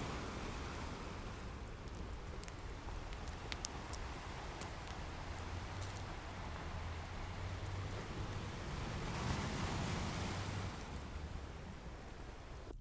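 Ocean waves washing onto a shore, the surf swelling near the start and again most of the way through, with the sharp scattered pops of a crackling wood fire over it.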